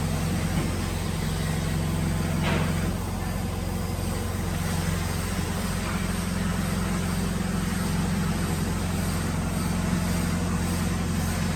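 A workshop machine motor running with a steady low hum, with a faint tap about two and a half seconds in.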